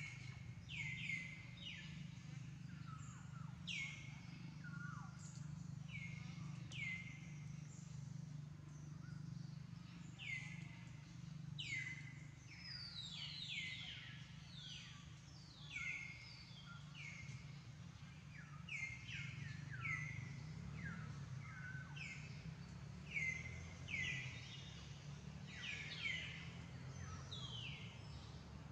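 Birds chirping: many short, high calls that drop sharply in pitch, repeated over and over and often overlapping, over a steady low hum.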